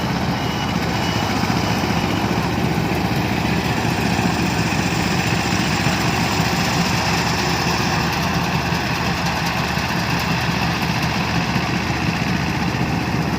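Tractor engine running steadily with an even chugging while it ploughs a rice paddy.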